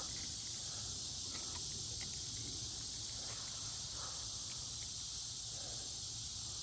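Steady high-pitched chorus of insects droning without a break, with a few faint soft sounds beneath it.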